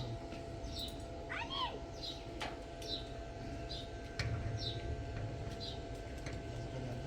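Short high-pitched animal calls repeated about twice a second, with a longer call that rises and falls about a second and a half in, over a steady low hum.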